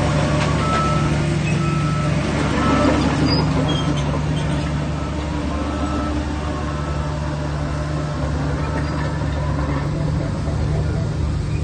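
Heavy earthmoving machinery, most likely the Shantui DH17C3 Pro bulldozer, with its diesel engine running steadily under work. A faint high beep sounds now and then through most of it.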